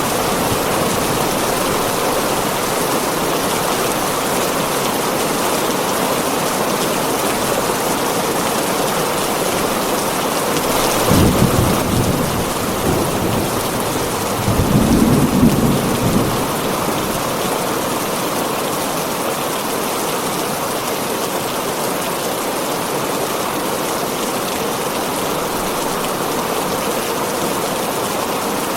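Heavy rain falling on a tin roof, a steady dense wash of noise, with two rolls of thunder rumbling through it about a third of the way in and again shortly after.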